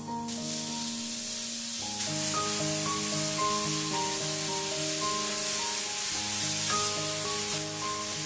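Deodeok root strips sizzling in oil in a hot cast iron skillet, a steady hiss that grows louder about two seconds in as more strips go into the pan. Background music with a steady melody plays throughout.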